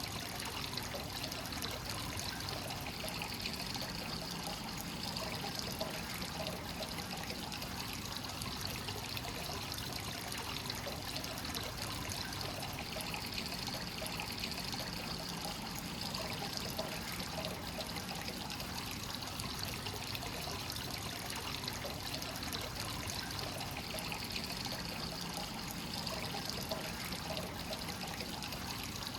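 Free-flowing hot spring water pouring and trickling steadily into a rock bath, an even, unbroken splashing.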